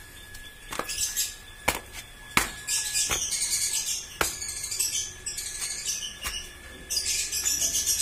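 Small birds chirping in dense high bursts, twice, with several sharp clicks between them.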